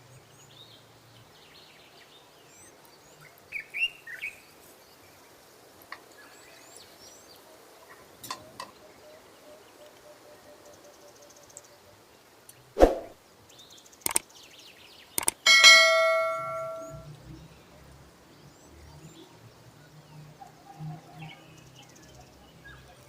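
A few sharp knocks, then about two thirds of the way through a loud ringing clang of struck metal that dies away over a second or so. Birds chirp faintly in the background, with a few chirps early on.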